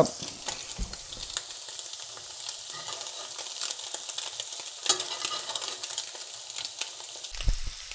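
Sea scallops sizzling in butter and oil in a cast iron skillet, a steady high crackling sizzle with scattered pops, as spoonfuls of the hot butter are basted over them in the last moments of cooking.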